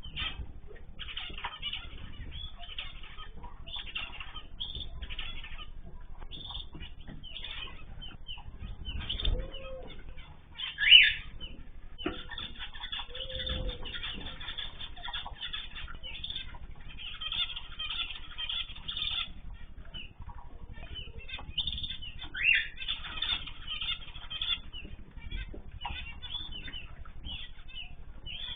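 A mixed aviary of cockatiels, zebra finches, canaries and goldfinches chirping busily, with wings fluttering. A louder, sharp rising call comes about eleven seconds in.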